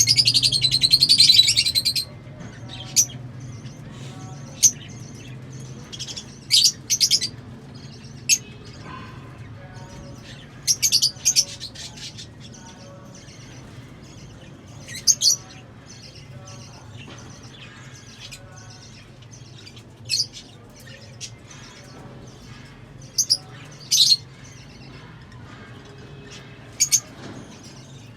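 Lovebirds chirping: a burst of rapid shrill chattering in the first two seconds, then sharp high single chirps and short chirp runs every second or two.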